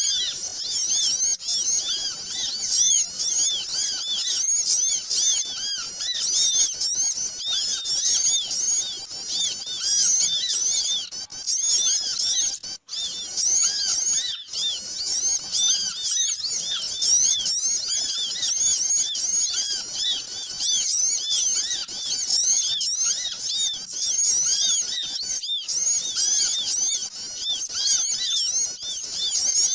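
A dense, busy chorus of many small birds chirping and twittering over one another without pause, played as a bird-lure (pikat) recording meant to draw small birds in. The calls are short, high, arched chirps, with a brief break about 13 seconds in.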